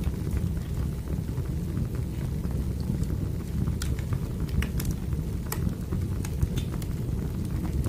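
Wood fire burning: a steady low rush of flame with scattered sharp crackles and pops from the burning logs.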